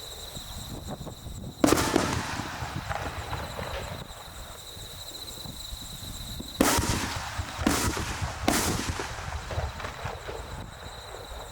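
Aerial firework shells bursting: one sharp, loud boom about two seconds in, then three more in quick succession later, each trailing off in a rumbling echo. Between the bursts a steady high-pitched tone runs in the background.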